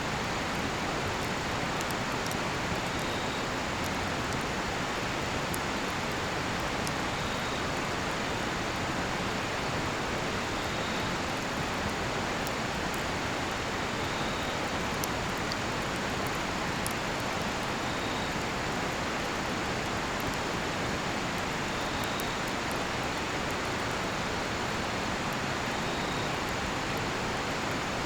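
Steady rush of a nearby river, with the faint crackle of a cedar-wood campfire. A cricket gives a short high chirp about every three to four seconds.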